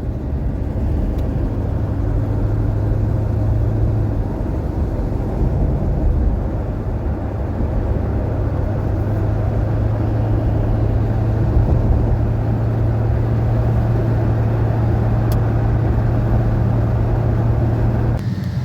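1981 Cadillac Seville on the move: a steady engine hum with road noise, dropping off abruptly just before the end.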